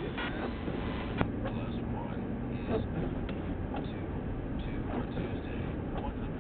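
Steady road and engine noise of a patrol car driving, heard inside the cabin, with a few short clicks, the sharpest about a second in.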